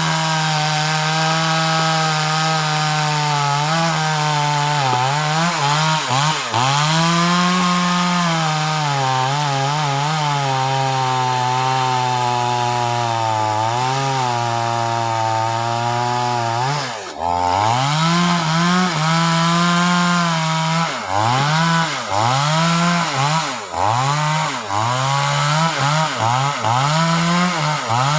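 Two-stroke chainsaw running at high revs, its pitch sagging and recovering over and over as the chain bites into wood. About two-thirds of the way through it drops briefly toward idle, then revs back up and goes on in short, quick surges.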